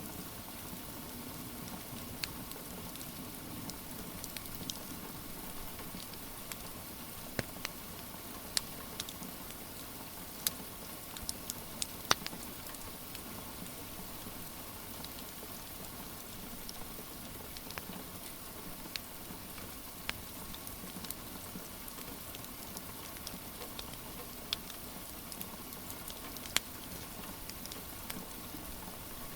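Steady rain hiss with the irregular sharp crackles and pops of a wood fire scattered through it, a few every couple of seconds.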